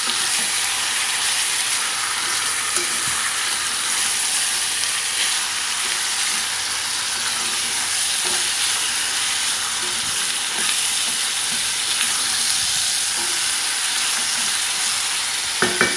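Raw chicken pieces sizzling steadily in hot oil with sautéed onion, garlic and ginger, the searing stage before water is added for tinola, with a wooden spatula stirring and ticking against the pot now and then.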